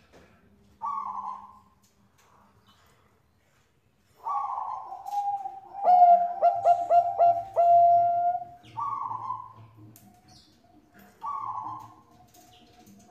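Zebra dove (Thai-bred perkutut bangkok) cooing. A short coo comes about a second in. From about four seconds in comes a longer song: a falling opening coo, then a quick run of about five clipped notes. Two more short coos follow near the end.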